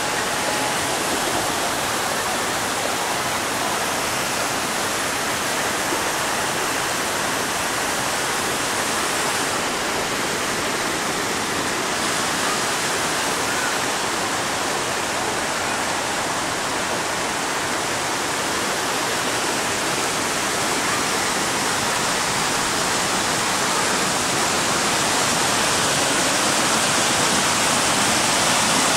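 Steady rush of rainwater running after a heavy downpour, growing a little louder near the end.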